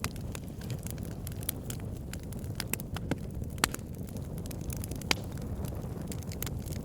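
Wood logs burning: a steady low rush of flame with irregular crackles and sharp pops, two louder pops about three and a half and five seconds in.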